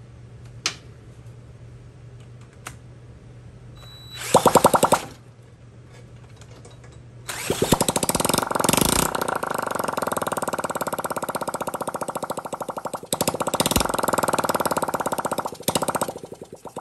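Honda Z50's small single-cylinder four-stroke engine catching briefly about four seconds in, then firing up a few seconds later and running with a rapid exhaust putter. It stumbles once, then sputters and dies near the end. The owner takes this as a sign that the carburetor is still not clean and the engine won't run off choke.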